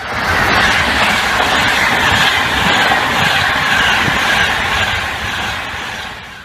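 Train running by: steady loud rail and wheel noise, easing off in the last second or so and cutting off abruptly at the end.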